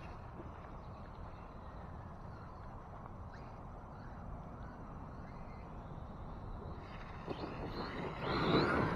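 Brushless motor of an RC monster truck running on a 6S battery under a steady outdoor background hiss; near the end the motor whine climbs in pitch and gets louder as the truck accelerates.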